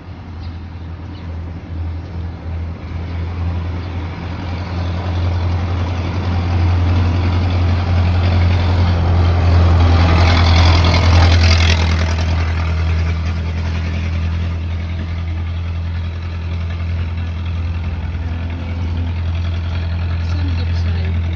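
Road traffic beside a busy highway: engines running with a steady low hum, and a vehicle passing close, loudest about halfway through, its noise swelling and then fading.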